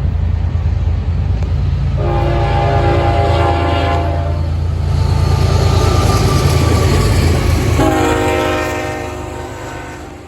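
Locomotive horn sounding two chord blasts, the first about two seconds long and the second starting about eight seconds in, over the steady low rumble of the train; the sound fades near the end.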